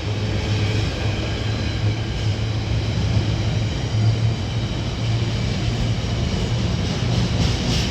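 Steady low rumble of railway noise with a constant low hum, unchanging in level.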